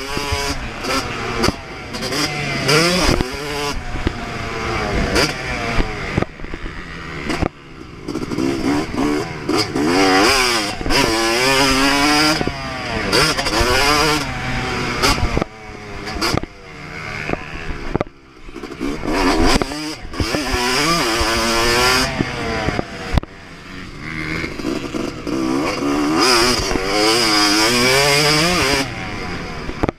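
Yamaha YZ250 two-stroke motocross engine at full throttle, revving up and down over and over as the rider accelerates, shifts and backs off, with brief drops in engine note between the pulls.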